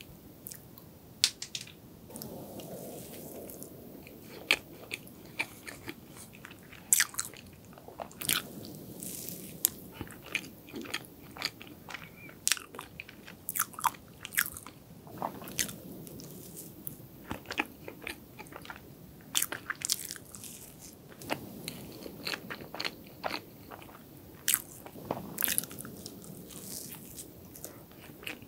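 Close-miked eating of chocolate cake: steady chewing with many irregular, sharp wet mouth clicks and smacks.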